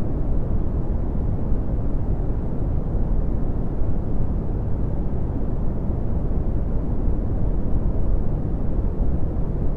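Red (Brownian) noise: a steady, deep rumbling hiss with most of its energy in the bass and little in the treble, unchanging throughout.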